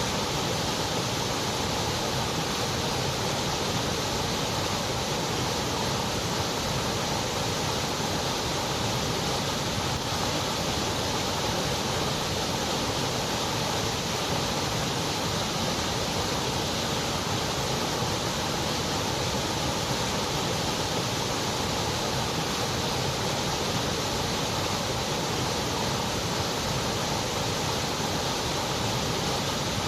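Steady white noise: an even, unchanging hiss with no rhythm or breaks.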